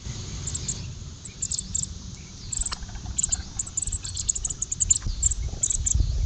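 Small birds chirping: many short, high notes that come faster in the second half, over a low rumble.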